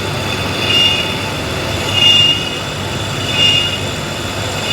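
Metal lathe running, a steady mechanical noise with a high squeal that swells and fades about every second and a third.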